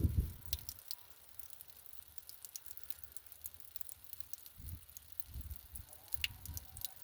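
Water from a natural spring trickling and dripping over rocks, with many small splashes and low gurgling swells at the start and again about midway.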